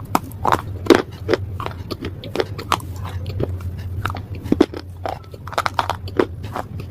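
Close-up biting and chewing of hard, brittle slate pieces: irregular, crisp crunches a few times a second over a steady low hum.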